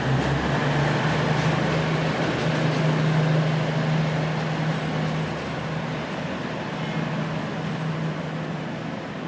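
Diesel train running at a station platform: a steady engine hum over rumbling noise, slowly getting quieter.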